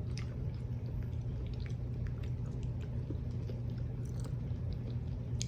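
A person chewing a mouthful of breakfast burrito: soft, wet mouth clicks scattered through the chewing. A steady low hum lies underneath.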